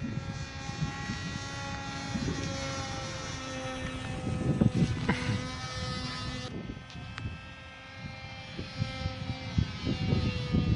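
Small propeller motor of a homemade MQ-9 model aircraft buzzing in flight, its pitch drifting slowly lower. Gusts of wind buffet the microphone, heaviest about halfway through.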